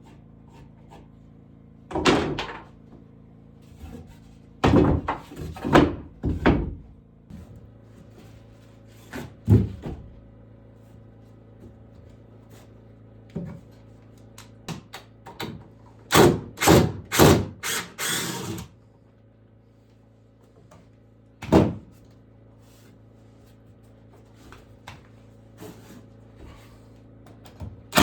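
Scattered knocks and thuds from woodworking, with single knocks and a run of about five quick blows about sixteen seconds in, over a faint steady hum.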